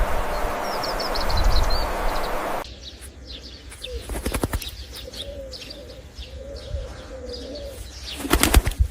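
A steady hiss with faint high chirps stops abruptly. Then birds: a cooing call wavering for a few seconds, with high chirps and wing flaps that grow loud near the end.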